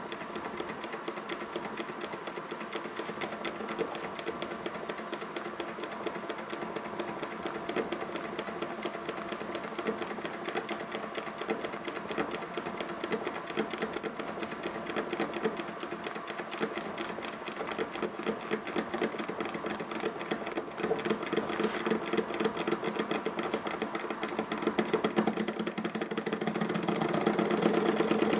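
Ernst Plank Cosmo toy vertical steam engine running fast, with a rapid, even mechanical clatter that grows louder in the last third.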